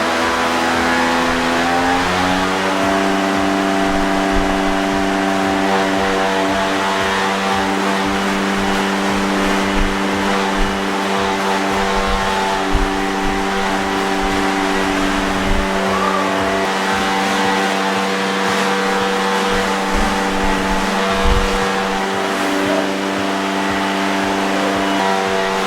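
DJI Mavic 2 Pro drone's propellers whining steadily in a hover, the pitch stepping up slightly about two seconds in and then holding as the motors work against the wind. Uneven low rumbling and occasional thumps run underneath.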